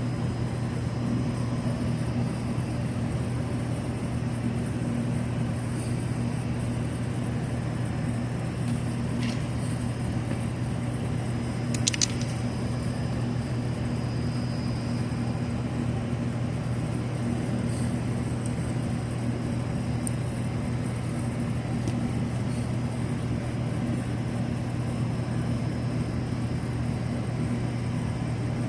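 Steady low hum of running machinery, with two short sharp clicks about nine and twelve seconds in.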